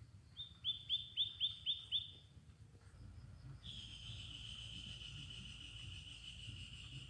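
A songbird calling: a quick run of seven high, downward-sweeping notes, about four a second. About three and a half seconds in, a long, high, steady tone starts and slowly falls in pitch.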